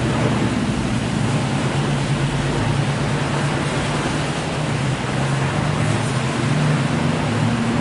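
Automatic car wash tunnel equipment running: a steady rush of spraying water and brushes over a constant low motor hum.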